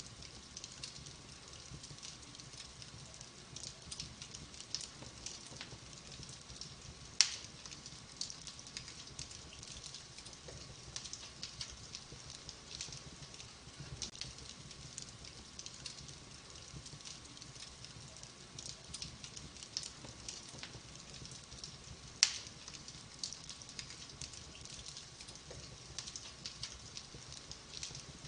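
Wood fire crackling in a fireplace: a constant scatter of small, soft crackles, with two sharp loud pops, about seven seconds in and again about twenty-two seconds in.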